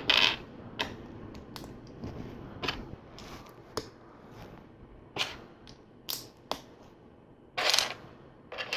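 Plastic LEGO bricks being handled and pressed together: scattered sharp clicks and snaps, about one a second, the loudest a little before the end.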